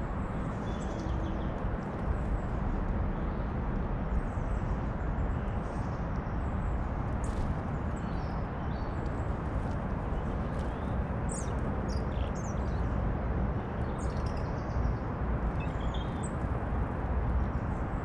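Short, faint, high bird chirps and calls scattered through, over a steady low background rumble.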